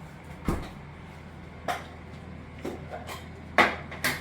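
Kitchen clatter: about five short, sharp knocks of utensils and dishes spread over a few seconds, the loudest near the end.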